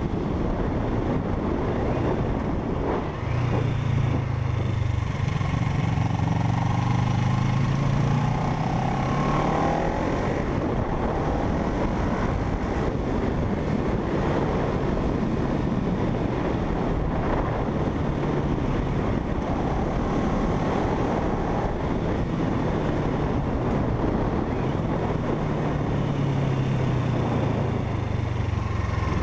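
Parallel-twin motorcycle engine running under way, its note climbing and easing off a few seconds in and again near the end, over steady wind rush on the microphone.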